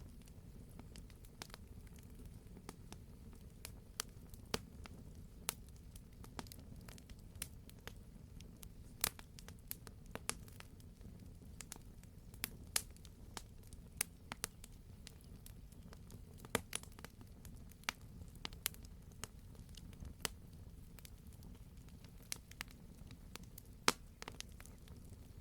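Wood fire crackling, with sharp irregular pops and snaps over a low steady rumble of the burning.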